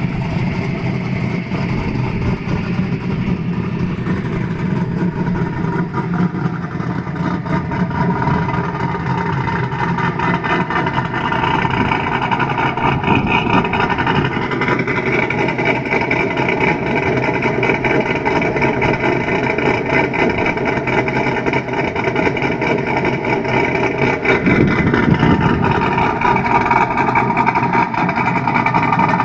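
Cammed LS1 V8 (TSP 233/239 cam on a 112 lobe separation angle, long-tube headers) running at idle just after a cold start, heard through a Borla adjustable exhaust whose valve plate has a 3/4-inch hole. It runs steadily, getting slightly louder about eleven seconds in.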